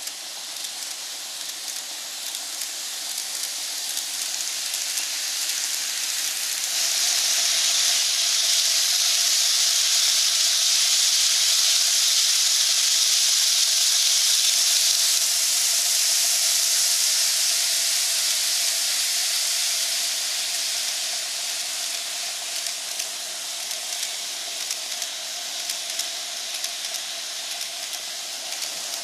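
N gauge model train running along the track: a steady rolling hiss with faint clicks from the wheels on the rails, and a steady motor whine. It grows louder about a quarter of the way in as the train passes close, then fades off gradually.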